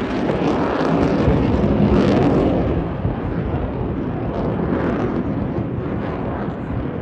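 Jet noise from a Eurofighter Typhoon's twin EJ200 turbofans in a display pass, a loud rushing rumble that peaks in the first two and a half seconds and then carries on a little lower and steady.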